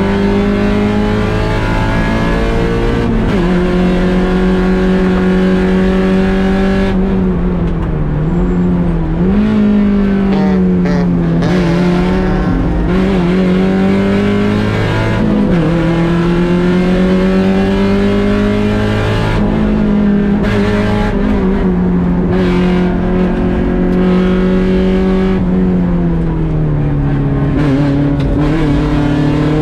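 Mazda Miata 1.6-litre four-cylinder engine running hard at racing speed. The pitch climbs slowly and drops sharply at upshifts about three seconds in and again around fifteen seconds, and falls with quick blips under braking and downshifts around eight seconds and again near the end.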